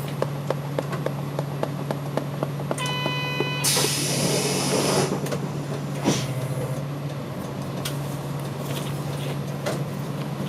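Route bus idling, its engine a steady low hum, with regular ticking in the first few seconds. About three seconds in a short beeping chime sounds, followed by a loud hiss of compressed air from the pneumatic door lasting over a second, and a single clunk about six seconds in.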